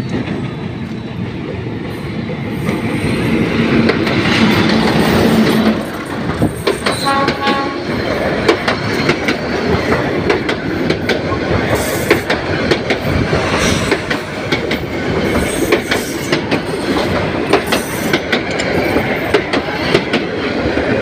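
A train passing close by with a loud, continuous rumble. A horn sounds steadily for about two seconds early on, followed by a short tooting sound. After that comes a rapid, irregular clickety-clack of the wheels over the rail joints.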